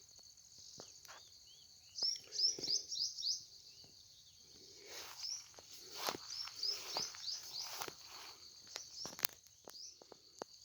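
Small birds chirping in clusters of quick high notes over a steady high hiss, with scattered clicks and rustles.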